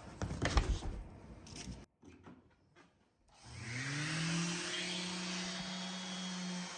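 A few knocks and clatter of wood being handled, then, after a short silent gap, an electric power tool's motor spins up with a rising whine and runs steadily with a hiss.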